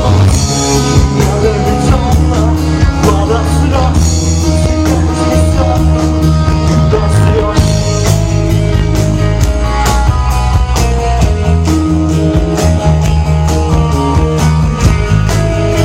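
Rock band playing loudly: a steady drum beat with bass and guitars, and some singing.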